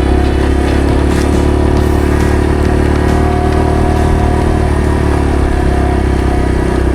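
Dirt bike engine running at a steady, nearly unchanging pitch. It cuts off suddenly at the end.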